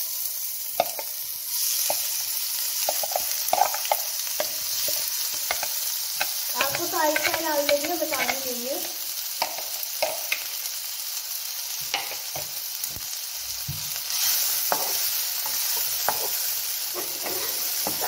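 Chopped onion, garlic, green chillies and ginger frying in hot oil with cumin seeds in a non-stick pan. A sizzle breaks out the moment they go in and carries on as a steady frying hiss. A wooden spatula stirs the mix, scraping and tapping against the pan.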